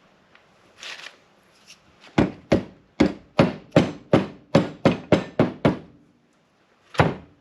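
Hammer taps driving a new seal into an LS engine's valley cover: a run of about eleven sharp taps at roughly three a second, then one more about a second later.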